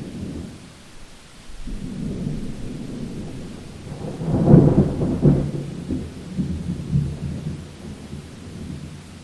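Thunder rumbling through steady rain, building about a second and a half in to a loud crack-and-roll peak around the middle, then rolling away toward the end.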